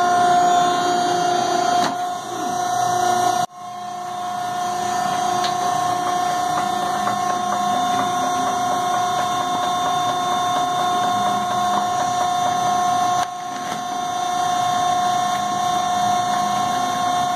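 Industrial baler's hydraulic unit running with a steady whine while the ram retracts. The level drops sharply about three and a half seconds in and builds back, then steps down again near thirteen seconds.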